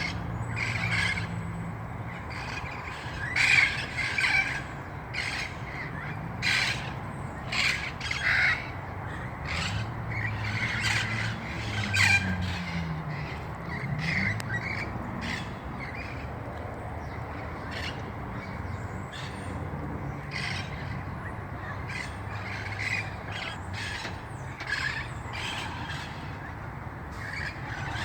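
A flock of red-crowned Amazon parrots squawking, many short harsh calls overlapping and following one another in quick succession.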